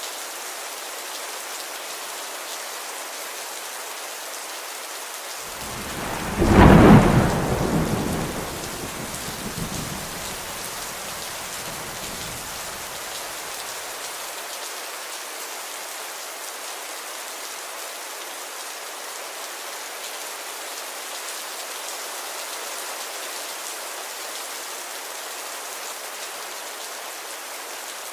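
Steady rain falling, with one clap of thunder about six seconds in that peaks sharply and rumbles away over several seconds.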